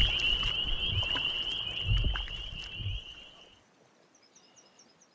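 Frogs calling in a steady, high-pitched trilling chorus over low rumbling thumps on the microphone. It cuts off abruptly about three and a half seconds in, leaving near silence with a few faint high chirps near the end.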